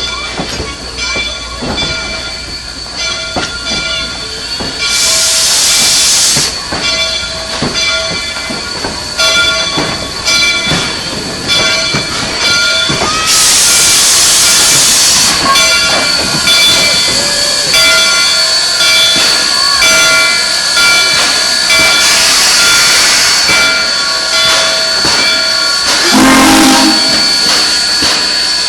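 Steam locomotive working, with steady mechanical tones and frequent clanks. Loud bursts of steam hiss come three times, about 5, 13 and 22 seconds in, and a short lower tone sounds near the end.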